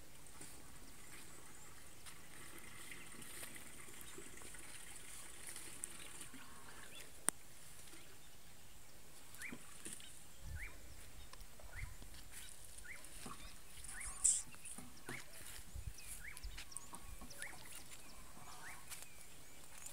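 Quiet outdoor garden ambience with a faint steady hiss; from about halfway through, a bird repeats a short rising chirp roughly every three-quarters of a second, over a few soft low thumps.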